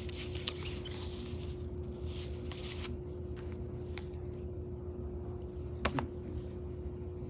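Rustling and a few sharp clicks from takeout food containers and utensils being handled, with the busiest rustling in the first three seconds and the loudest clicks about half a second and six seconds in.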